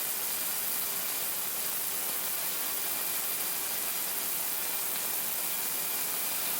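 Steady, even hiss of air-conditioning airflow in the Airbus A380's flight deck, with the aircraft parked and its engines shut down.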